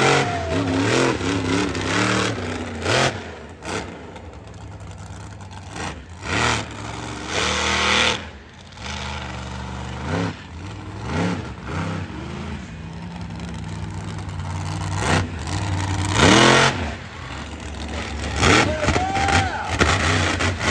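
Monster truck engine revving hard again and again, the pitch sweeping up and dropping back in repeated bursts, with a sharp high rev about two thirds of the way in.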